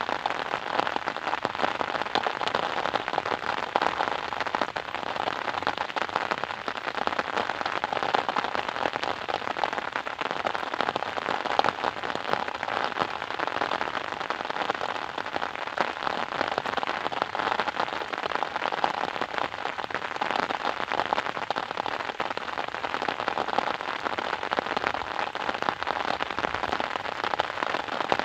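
Steady rain falling, a dense pattering of drops on a surface with no let-up.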